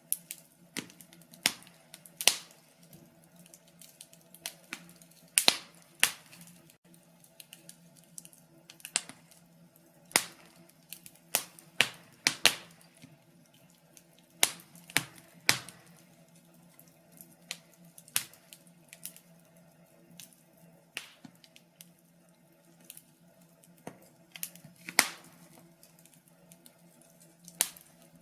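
Wood fire crackling in a fireplace, with irregular sharp pops and snaps, some much louder than others, over a faint steady hum.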